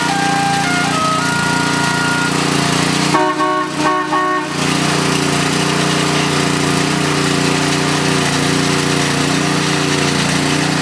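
Small 3.5 hp gas engine running steadily, the motor that drives the tractor's hydraulic pump. A horn sounds a few notes of changing pitch at the start, then several short blasts about three to four seconds in.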